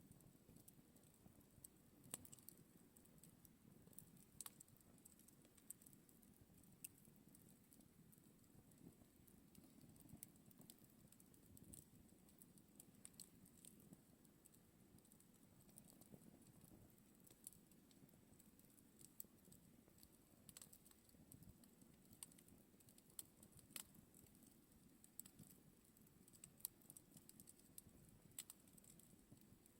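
Faint campfire crackling: small irregular pops and snaps over a low, steady rumble of burning.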